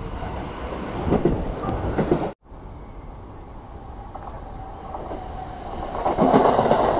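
Electric commuter trains running into stations. A Keio Line train runs for a little over two seconds and is cut off abruptly. A Rinkai Line 70-000 series train then approaches, growing louder toward the end.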